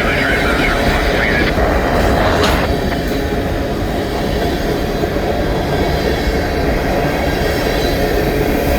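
Canadian National freight train's cars rolling past with a steady loud rumble of steel wheels on rail. A high wheel squeal or hiss sounds over it for the first second and a half, and again briefly about two and a half seconds in.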